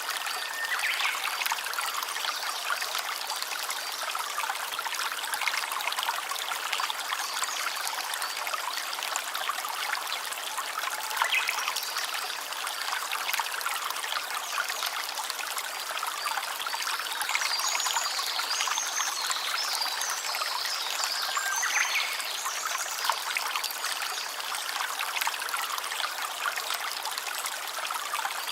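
A small stream trickling and splashing steadily, with a few short high chirps over it in the second half.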